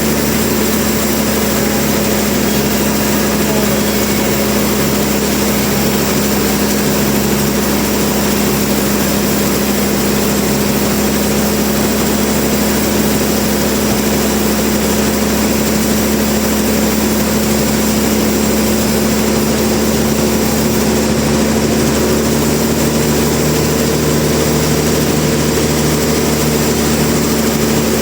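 Sawmill machinery running steadily: an even mechanical noise with a constant hum that never changes.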